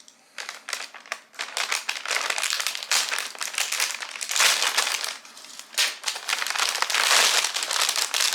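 A parcel's packaging crinkling loudly as it is handled and torn open by hand.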